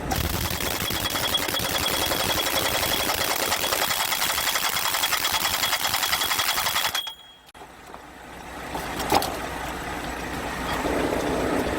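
A power tool runs with a dense, rapid rattle and a thin high whine for about seven seconds, then cuts off suddenly. A quieter low hum follows.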